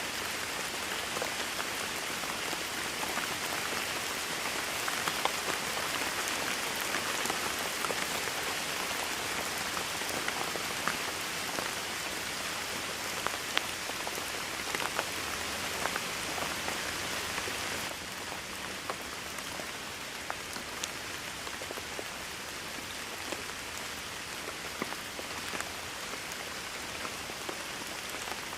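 Steady heavy rain falling on a surface, with distinct single drops ticking through the hiss. The rain drops slightly in level about two-thirds of the way through.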